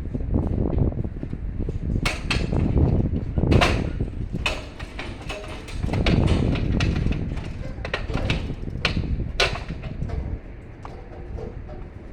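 Scattered sharp knocks and clanks, about seven in all, over a steady low rumble.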